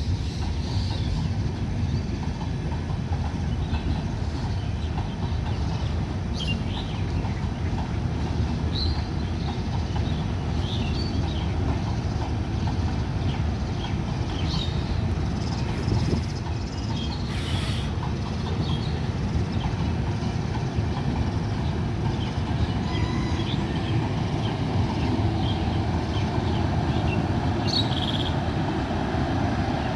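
Mitali Express passenger train rolling past, a steady rumble of coaches and wheels on the track that holds the whole time, with brief high chirps scattered over it.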